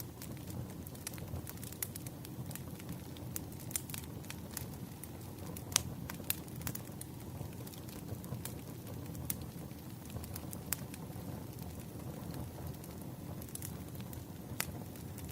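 Wood fire crackling: irregular sharp pops and snaps over a steady low rumble, with a few louder pops, one about six seconds in and one near the end.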